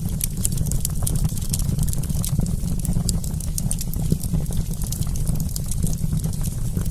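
Wood campfire crackling: many sharp, irregular pops and snaps over a steady low rumble.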